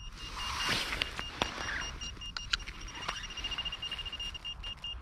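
Metal detector beeping: a steady, high pulsing tone that quickens in the middle, signalling a metal target in the soil. Sharp clicks and scraping of digging in earth sound over it.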